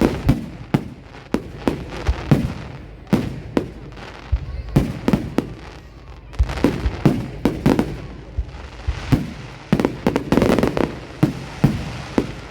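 Fireworks display: a rapid, irregular series of sharp bangs from aerial shells bursting overhead, with a denser stretch of crackling about ten seconds in.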